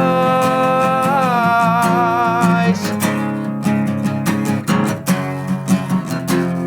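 Live guitar-and-vocal rock song: a man's voice holds one long sung note for the first two and a half seconds over strummed guitar, then the guitar strums on alone.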